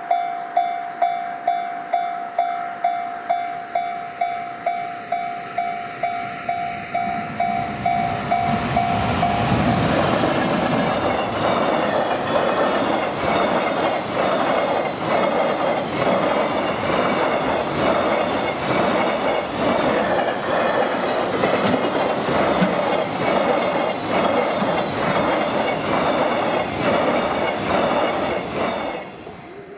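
A level-crossing warning bell dinging about twice a second. About ten seconds in, a container freight train hauled by a JR Freight EF210 electric locomotive passes close by, its wheels clacking steadily over the rail joints. The sound cuts off abruptly near the end.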